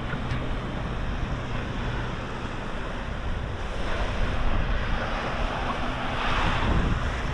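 Surf washing onto the beach, with wind rumbling on the microphone and a swell of louder surf near the end.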